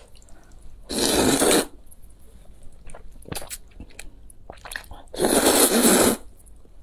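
Close-miked eating: two loud, noisy mouthfuls, one about a second in and one about five seconds in, each lasting under a second, with soft chewing and small mouth clicks between.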